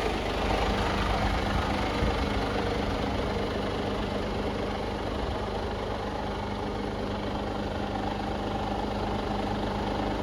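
Mercedes-Benz Actros 1948 truck's straight-six diesel engine idling steadily.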